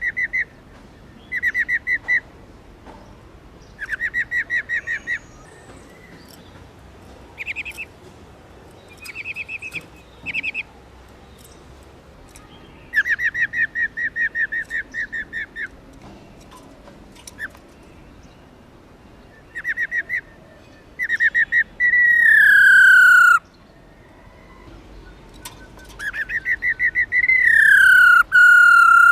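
Female black-throated laughingthrush giving its rattling 'ro ro' calls: short bursts of quick pulsed notes, repeated with pauses. Twice near the end comes a loud, drawn-out note that slides downward in pitch.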